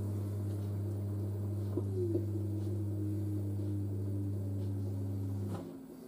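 LG DirectDrive washer dryer running its drain pump with a steady hum while the drum turns in its pre-spin, with a fainter motor whine gliding in pitch through the middle. The hum cuts off suddenly near the end.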